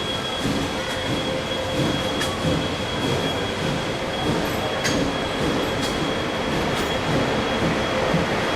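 Steam-hauled train of BB18¼ 1079 running along the track: a continuous rolling rumble with a thin steady squeal. A few sharp clicks from the wheels come at intervals.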